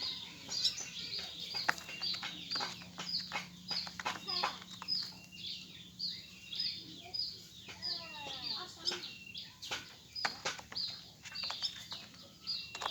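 Birds calling: a short high chirp repeated about twice a second, with other bird calls mixed in.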